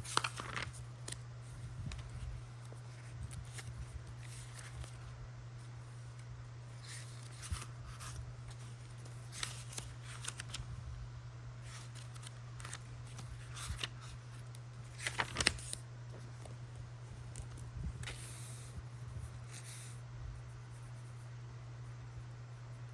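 Quiet handling of a paper journal and stationery: scattered small clicks, taps and paper rustles, the sharpest cluster about fifteen seconds in, over a steady low hum.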